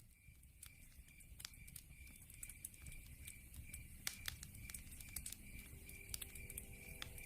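Log fire crackling with irregular sharp pops over a low rumble of burning, growing louder through the first few seconds. A steady, high, pulsing chirp of a night insect runs underneath.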